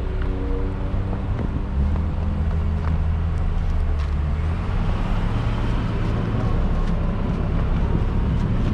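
Diesel pickup truck engine, the Silverado's Duramax, running under varying load, its pitch shifting about two seconds in and again around five seconds in.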